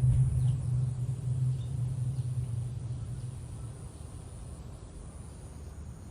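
Low rumble of a passing car, fading away over the first few seconds and leaving a quiet steady background.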